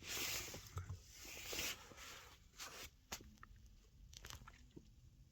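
Faint rustling noise with a few short, light clicks.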